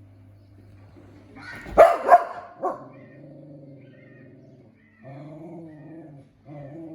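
Dog barking: two loud, sharp barks in quick succession about two seconds in, then a softer third bark.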